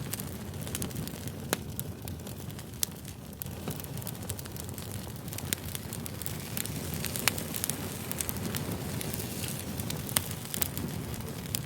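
Campfire crackling: a steady low rumble of burning wood with sharp pops and snaps scattered irregularly throughout.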